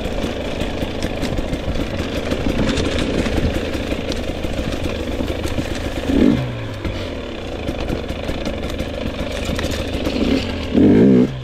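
GasGas EX 250 two-stroke dirt bike engine running while ridden off-road, with some clatter from the bike over rough ground. The throttle opens sharply twice, about six seconds in and more loudly near the end, each time dropping back after.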